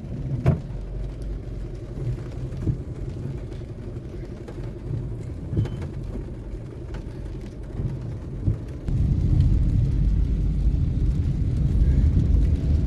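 Low rumble of a motor vehicle on the road, with a few short clicks; the rumble grows louder about nine seconds in.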